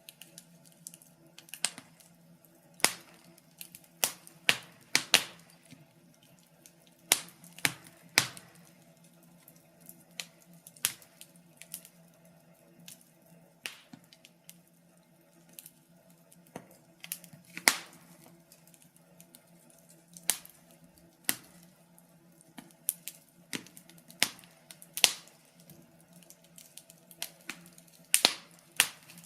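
Wood fire burning in a fireplace: irregular crackles and sharp pops from the burning wood, a few louder snaps among many small ones, over a faint steady low hum.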